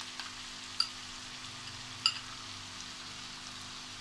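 Chicken and vegetables frying in a wok, a steady sizzle, with two sharp clicks about a second in and about two seconds in.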